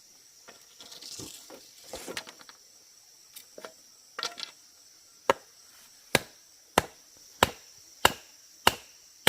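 Chopping with a blade: a few scattered lighter knocks, then from about halfway a steady run of sharp strokes, roughly three every two seconds.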